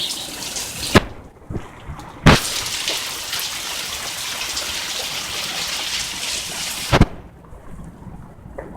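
Steady hiss of falling rain that cuts out sharply with a click about a second in, comes back with another click a second later, and stops again with a click near the end, leaving a fainter hiss.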